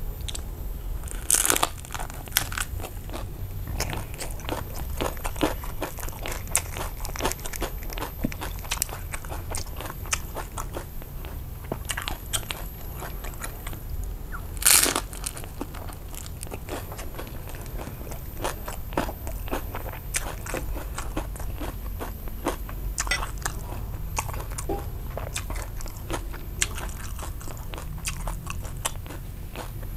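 Chewing and crunching of a fresh rice-paper roll of grilled pork sausage, crispy fried rice-paper roll and raw greens, with many small crackles throughout. Loud crunching bites come about a second and a half in and again about halfway through.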